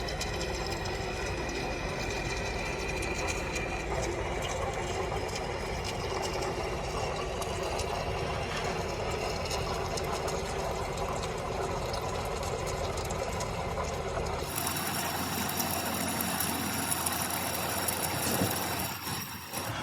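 Steady mechanical noise of workshop machinery running. About three-quarters of the way through it cuts abruptly to a different steady machine sound.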